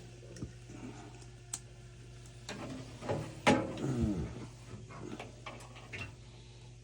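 Scattered small metallic clicks and taps of hand tools working a stubborn screw on a water heater's burner assembly, over a steady low hum. About three and a half seconds in, a louder falling groan is heard.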